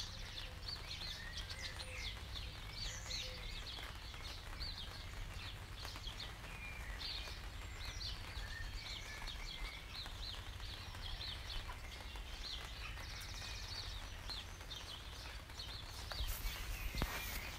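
Many birds chirping and calling in quick short notes over a steady low rumble of outdoor ambience; near the end a rushing noise swells briefly.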